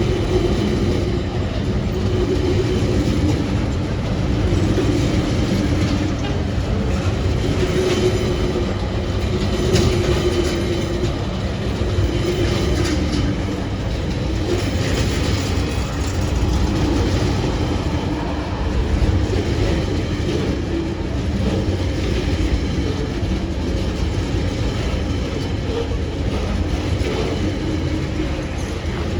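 TasRail freight train rolling past, a steady loud rumble with the wheels clattering over the rail joints.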